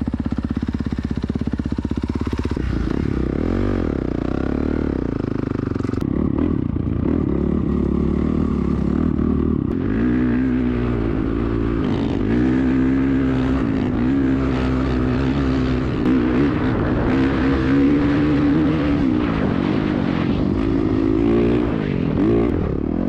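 Dirt bike engine ticking over steadily, then from about three seconds in revving up and down again and again as it is ridden, its pitch rising and falling with the throttle.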